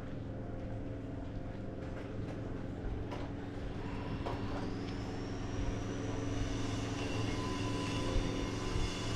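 An engine running steadily, with a high whine that rises and then holds about four seconds in, and a few faint clicks.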